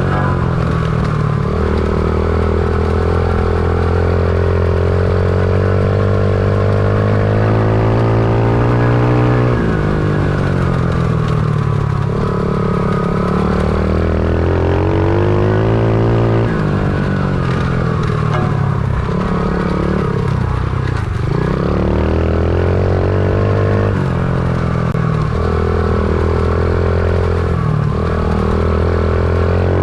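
Stomp pit bike's small single-cylinder four-stroke engine being ridden hard, the engine note climbing with the throttle and dropping sharply again several times as the bike goes around the track.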